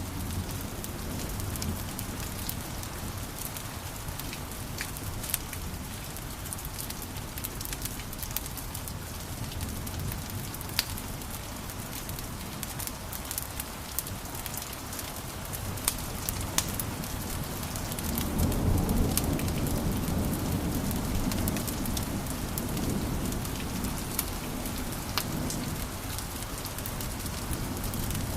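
Wood fire in a fireplace crackling: many sharp pops and snaps over a steady hiss, with a low rumble of flames that swells about two-thirds of the way through.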